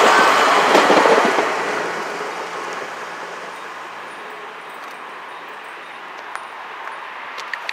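A red-and-white diesel railcar running away after passing, its rumble and wheel noise fading steadily over the first two or three seconds to a faint even hiss. A few small clicks come near the end.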